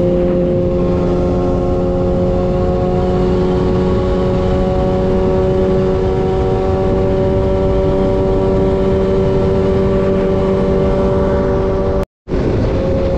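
Motorcycle engine running at a steady highway cruise, its pitch creeping slightly upward, with a rush of wind noise. The sound cuts out for a moment near the end.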